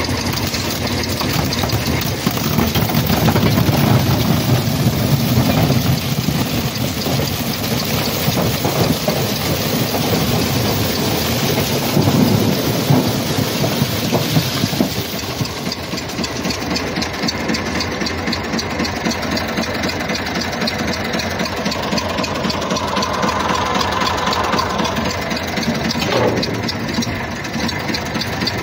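Massey Ferguson 253 tractor's diesel engine running steadily while a trailed SIP Tornado 80 corn picker clatters along harvesting maize. About halfway through the high hiss drops away, leaving the engine and machinery rumble.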